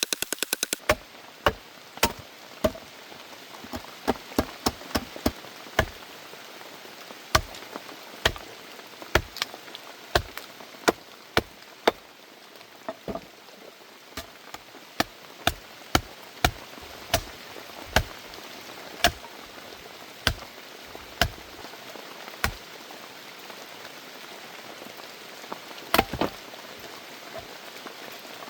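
A fast, even run of clicks cuts off just under a second in. Then come sharp knocks or taps at irregular intervals, roughly one or two a second, over a steady hiss.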